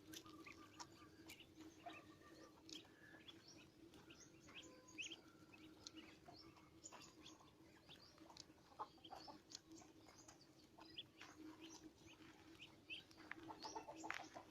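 Several small birds chirping with short, quick, high calls, faint over a steady low hum, with a thicker flurry of chirps and sharp clicks near the end.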